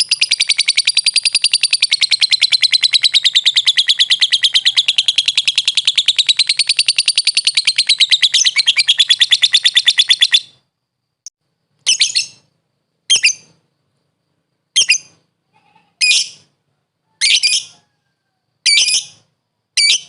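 Lovebird singing: a long, fast rattling trill of rapid repeated high notes that wavers up and down in pitch, breaking off about ten seconds in. After a short pause it gives seven short separate chirps at roughly even spacing.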